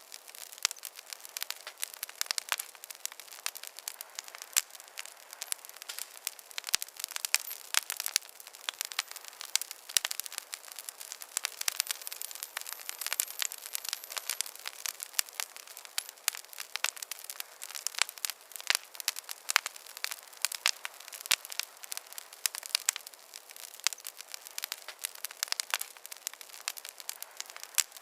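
Wood campfire crackling steadily, with dense irregular pops and snaps over a soft hiss. A faint high whistle, falling slightly in pitch, comes in around the middle.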